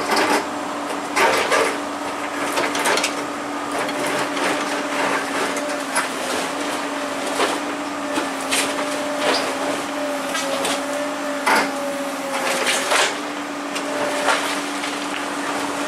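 Excavator running with a steady hum of engine and hydraulics that wavers slightly in pitch for a few seconds, broken by a dozen or so scattered sharp metallic clanks and knocks.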